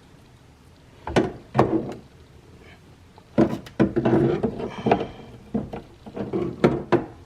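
Irregular metal clanks and knocks as vise grips clamp and bend a metal tab on a car door's window glide assembly, a few single knocks at first and then a denser clatter of clanks.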